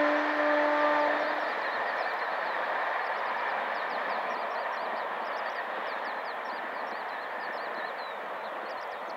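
A WAP-4E electric locomotive's horn sounds a steady chord and cuts off about a second and a half in, over a steady rushing noise from the train that slowly fades. From about two and a half seconds in, small birds chirp over and over in short, high, falling notes.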